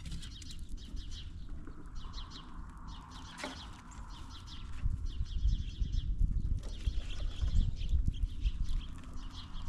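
Quick ticks and scratches of squirrels and birds moving about and handling peanuts on a feeding table close to the microphone, over a low rumble.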